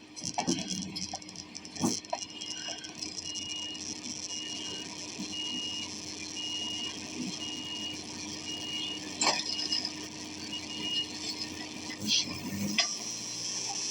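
Reversing alarm on heavy equipment beeping evenly about once a second for most of the stretch, over a steady low engine hum, with a few sharp knocks.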